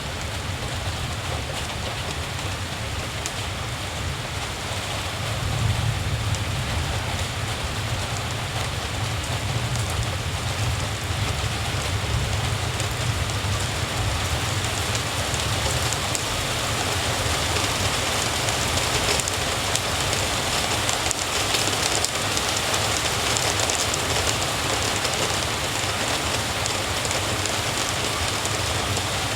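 Steady rain falling on surfaces, an even hiss with a low rumble running underneath that swells slightly about six seconds in.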